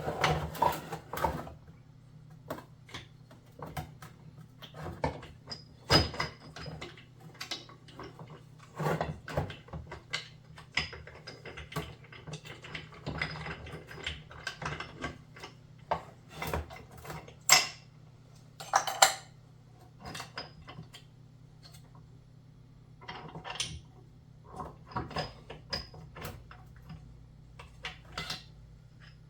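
Metal gearbox parts of a Kawasaki KX250 two-stroke engine clinking and knocking as they are handled and set down during disassembly: irregular clicks and clanks, with two sharper knocks past the middle, over a faint steady low hum.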